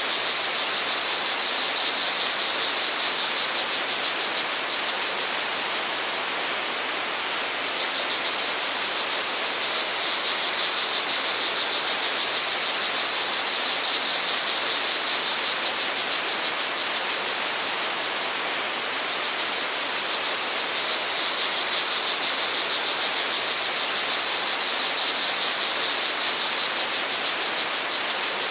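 Steady rush of flowing water from a forest stream or waterfall, with crickets chirping in a high, fast pulsing trill that swells and fades several times.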